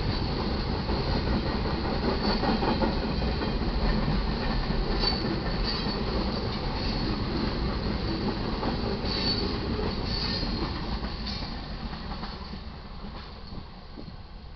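Freight train cars rolling past on steel wheels: a steady rumble and clatter with brief high-pitched wheel squeals now and then, fading away over the last few seconds.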